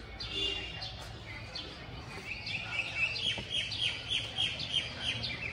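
A small bird chirping: short, high, falling chirps that quicken into a run of about four a second from about two seconds in.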